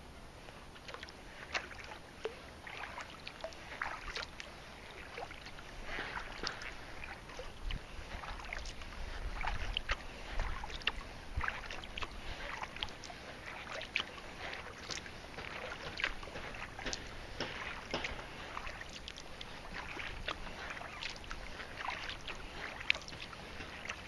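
Kayak paddling: the paddle blades dip into the water with many short, irregular splashes and drips.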